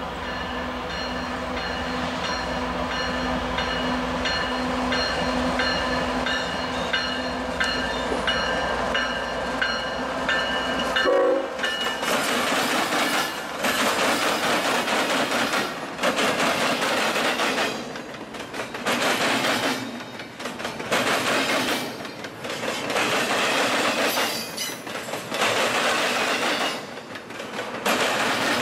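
CSX freight train with diesel locomotives approaching, its horn sounding steadily over the low engine rumble for about the first eleven seconds. Then the locomotives go by and double-stack container cars roll past, their wheel clatter swelling and dipping every couple of seconds.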